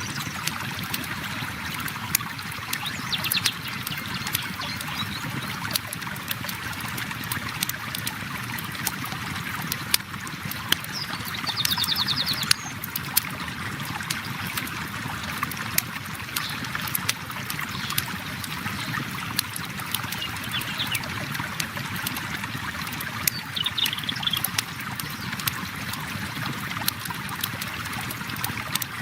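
River water flowing and trickling steadily, with a campfire crackling in frequent sharp pops over it. Birds trill briefly a few times.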